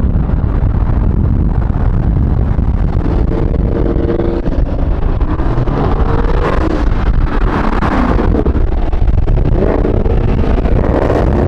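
Car engine noise mixed with heavy wind buffeting on the microphone; from about four seconds in, a tone wavers up and down in pitch.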